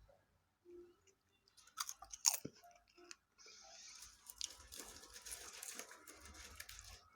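A person crunching and chewing popcorn, with a few sharp cracks about two seconds in, then a dense run of crackly crunching.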